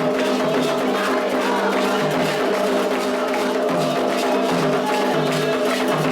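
Candomblé ritual music: hand drums and other percussion keep up a steady, dense beat under group singing.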